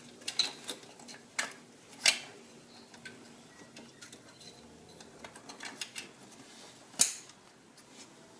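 Metal hand tools and parts clinking and clicking during reassembly around an alternator. Sharp, irregular knocks, the loudest about two seconds in and again about seven seconds in, with a quick run of light ticks between.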